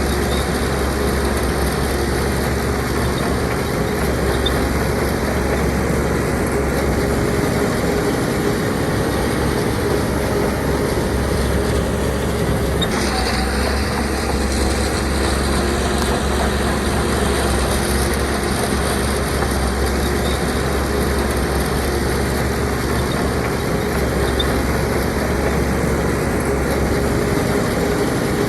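Heavy diesel engine of earthmoving machinery running steadily, its sound shifting about thirteen seconds in.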